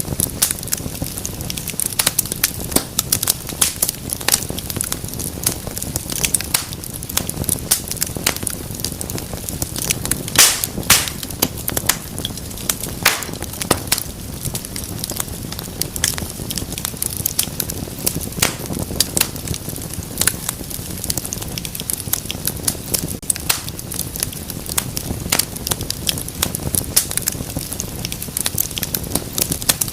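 Wood fire in a fireplace crackling, with frequent irregular sharp pops and snaps over a low steady rush of flame; a burst of louder pops comes about ten to thirteen seconds in.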